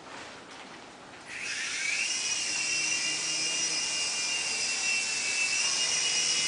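A remote-control helicopter's motor and rotor spin up about a second in with a rising whine, then run at a steady high whine. A few faint clicks come before the spin-up.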